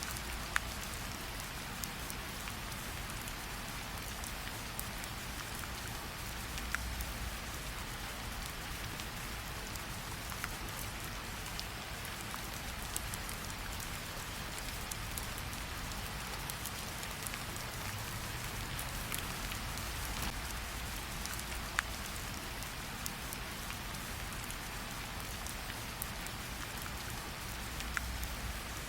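Steady rain falling, with a low rumble underneath and a single sharp crackle every few seconds from a wood fire.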